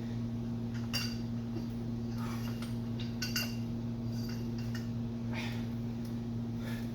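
A few faint metallic clinks of hand tools, about a second in and again about three seconds in, over a steady low hum.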